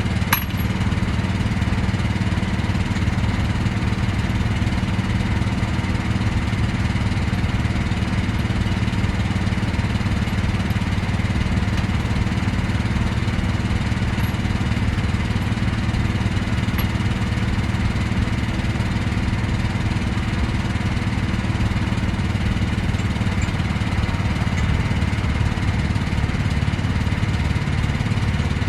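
An engine running steadily at constant speed, an unchanging low drone.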